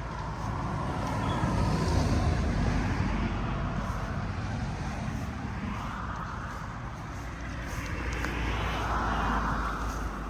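Road vehicles passing, heard as two swells of engine and tyre noise, the first peaking about two seconds in and the second near the end.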